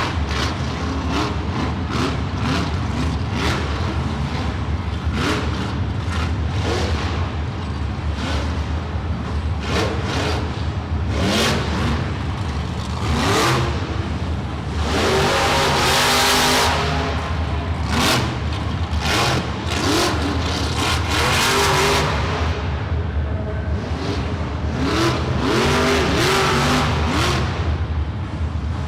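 Monster truck engine revving hard, its pitch rising and falling over and over, with many sharp knocks throughout and louder full-throttle surges about halfway through and again a few seconds later.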